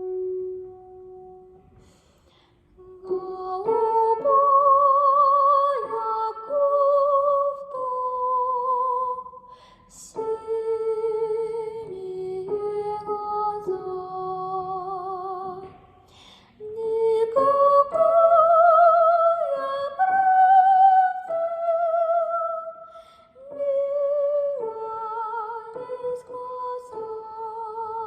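A woman's voice singing a slow wordless melody alone, long held notes with vibrato stepping from note to note, with short breaths between phrases.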